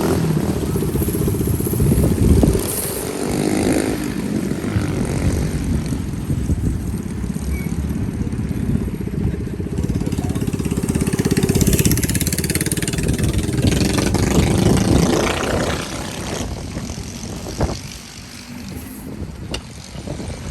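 Mini bike engine running and being revved, its revs climbing to the loudest point around the middle of the stretch, then dropping back to a lower idle in the last few seconds.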